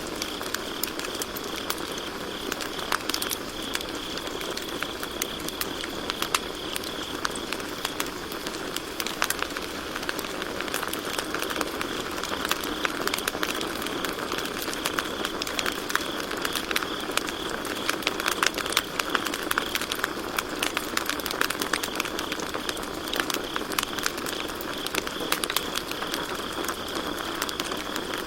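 Campfire crackling and popping constantly, with crickets chirping as a steady high trill behind it.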